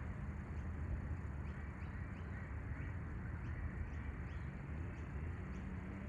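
A bird chirping repeatedly in short rising notes, about two or three a second, over a low steady rumble.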